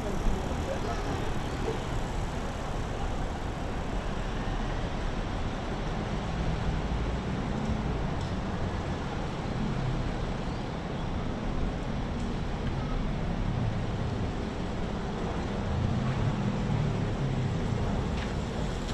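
Steady urban road-traffic noise: a continuous rumble of passing cars with no distinct single events.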